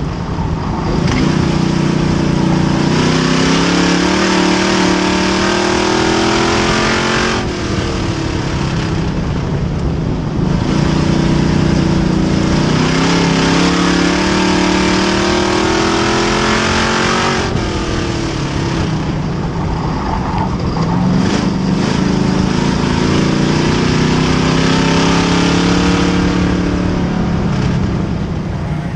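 Race car engine at full throttle, its pitch climbing steadily for several seconds and then dropping sharply as the throttle lifts. This repeats about every ten seconds, the rhythm of laps around an oval track.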